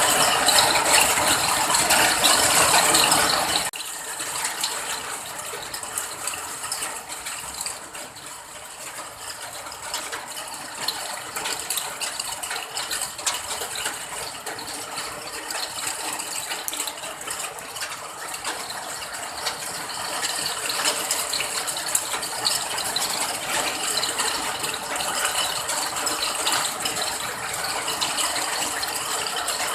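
Rain falling as a dense patter of many small drops. About four seconds in it drops suddenly to a quieter, lighter patter, which carries on steadily.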